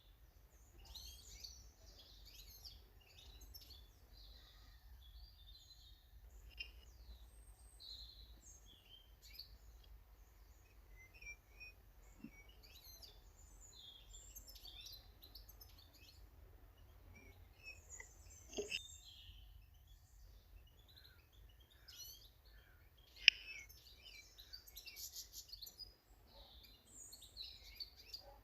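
Small garden birds chirping and calling, many short notes overlapping through the whole stretch. A knock comes about two-thirds of the way through, and a sharp click a few seconds later is the loudest sound.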